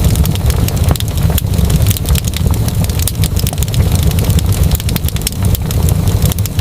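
Fireplace fire crackling, with a dense run of sharp irregular pops and snaps over a steady low rumble of the flames.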